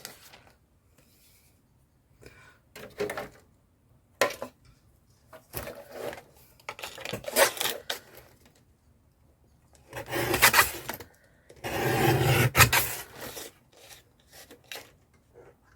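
Paper trimmer cutting paper, its blade rasping along the cut in two longer strokes about ten and twelve seconds in, after lighter rustling of paper being handled. The blade is dull enough that the owner says it needs sharpening.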